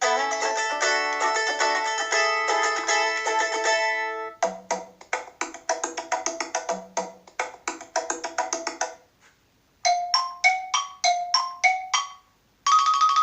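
iPhone ringtones played one after another. First a busy chiming melody for about four seconds, then a tune of short plucked notes, then a brief pattern of alternating high and low notes. A rapid pulsing trill tone starts near the end.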